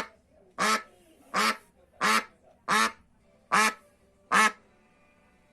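A duck quacking: about seven short quacks at an even pace, roughly one every three-quarters of a second, stopping shortly before the end.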